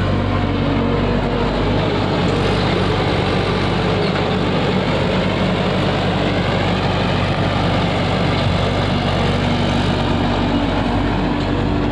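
Tractor diesel engine running steadily, with a constant dense rushing noise over it.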